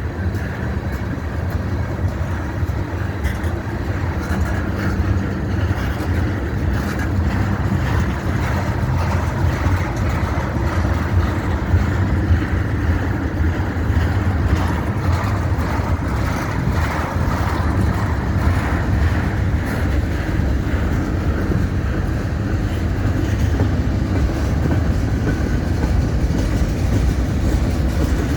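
CN freight train rolling past: a steady low rumble of steel wheels on rail, with faint clicks from the passing cars, growing a little louder through the middle.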